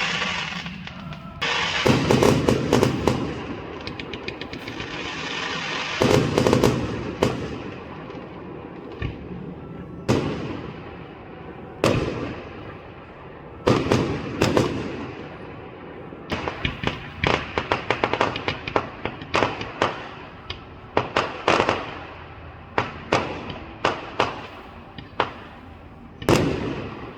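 Aerial fireworks display: sharp bangs, each trailing off in a fading crackle and echo. They go off every few seconds at first, then in a quicker string of bursts over the second half, with one last big bang near the end.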